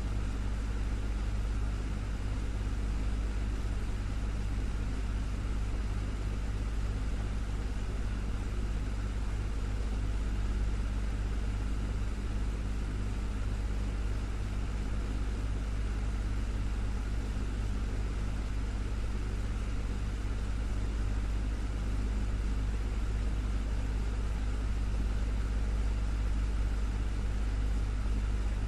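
Desktop fan running steadily: a constant low motor hum with a soft whoosh of moving air above it.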